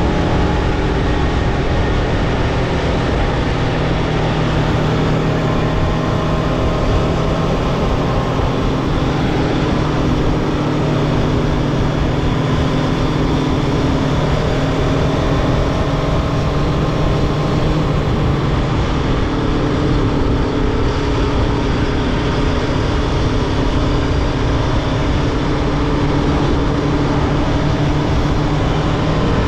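Aprilia Tuono V4 motorcycle's V4 engine running under way, its pitch drifting slowly up and down, over a constant rushing noise.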